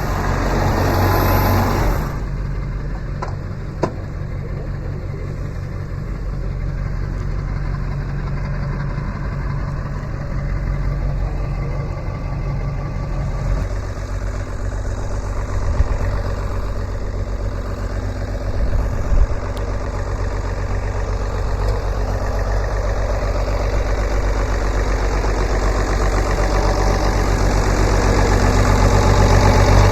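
Tractor engine idling steadily; its tone shifts about 13 seconds in, and a couple of sharp knocks sound over it.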